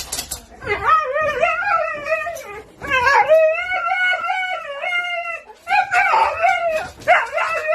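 A dog howling in long, wavering, whine-like calls, about four in a row with short breaks between them.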